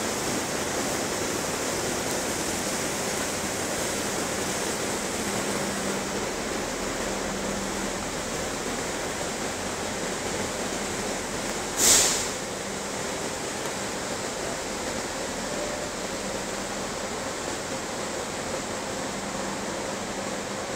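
Heavy machinery running steadily: an even rushing noise with a faint low hum. About twelve seconds in, a short, sharp hiss of air cuts in and dies away quickly, like a truck's air-brake release.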